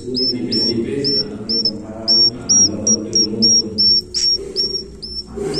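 Swiftlet chicks calling: a quick, even run of short, high chirps, each with an upward hook at the end, about two to three a second.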